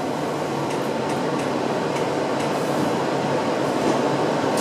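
Steady noise inside an R62A subway car, with a few faint light clicks.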